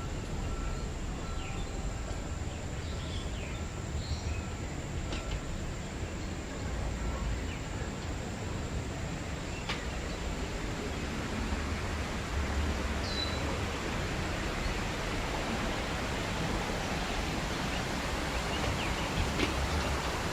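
Steady outdoor hiss of a tropical aviary, with a short high note repeated about twice a second for the first several seconds and a few faint bird chirps scattered through.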